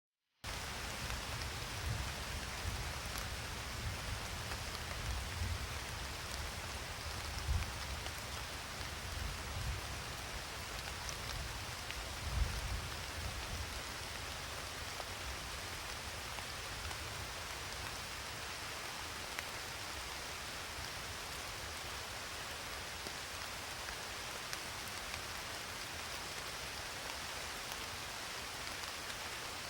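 Steady rain falling, starting abruptly out of silence just after the start, with a few brief low rumbles in the first half.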